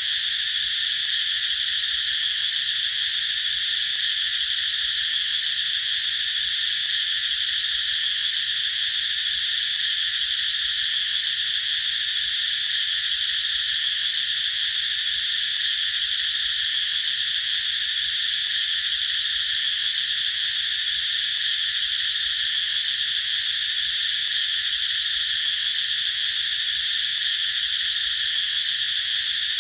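A chorus of cicadas calling: one continuous, even, high-pitched buzz that does not change.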